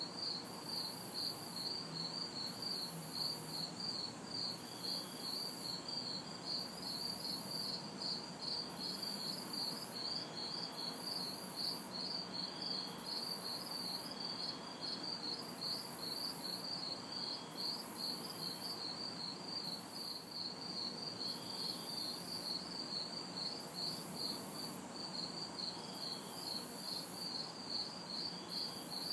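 Night chorus of crickets chirping in a steady, fast pulsing rhythm, with a higher-pitched insect buzz switching on and off about every two seconds. Under both lies a faint hum of distant city traffic.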